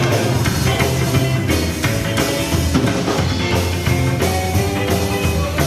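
A live rock band playing the instrumental opening of a rock and roll song: drum kit keeping a steady beat under bass and electric guitar, with no singing yet.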